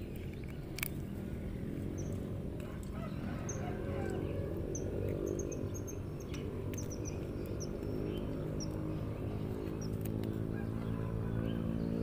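Small birds chirping in many short, high notes over a steady low hum, with a single sharp click about a second in.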